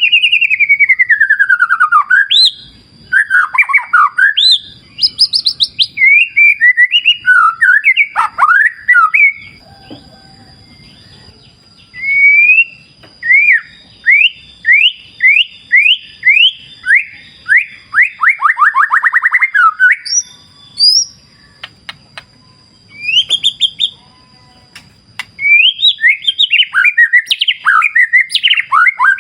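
White-rumped shama (murai batu) singing a varied song of loud whistled phrases, sweeping down and up in pitch, with a quick run of repeated rising notes midway. A faint low rush of river water sits underneath.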